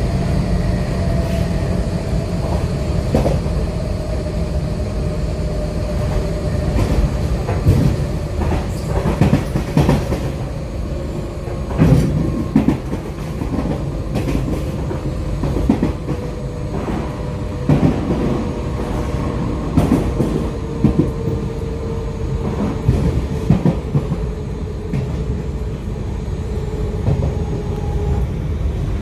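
Z20500 electric multiple unit heard from inside the carriage while running: a steady low rumble from the wheels and bogies, broken by irregular sharp knocks of the wheels over the track, with a faint whine that slowly falls in pitch.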